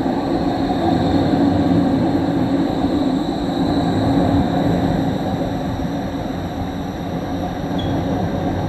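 Interior running noise of an Eglinton line train in motion: a steady rumble of wheels and running gear, with a faint high whine throughout, easing slightly in the second half.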